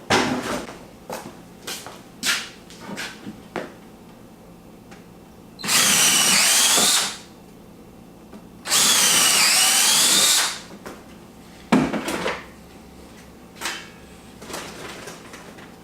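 Power drill run twice in bursts of about a second and a half, its pitch dipping under load and then recovering, with short knocks and clicks of handling materials in between.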